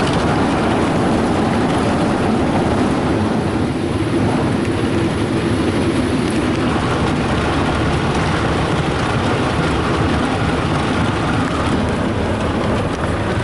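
Ryko Softgloss Maxx soft-touch car wash in its brush cycle, heard from inside the car: a loud, steady wash of spinning cloth brushes and water spray against the body and glass.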